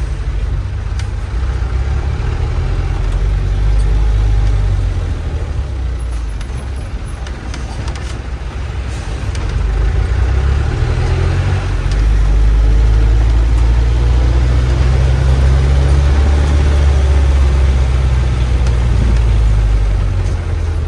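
Bus diesel engine running under way with road noise, a deep low rumble that swells louder about four seconds in and again through the second half.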